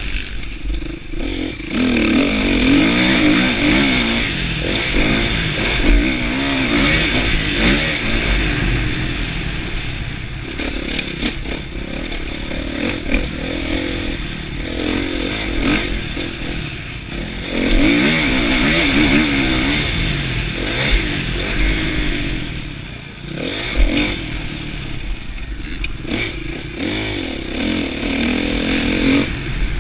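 Kawasaki KX450F's single-cylinder four-stroke motocross engine being ridden hard, its revs rising and falling over and over as the throttle opens and closes, with occasional sharp knocks and clatter.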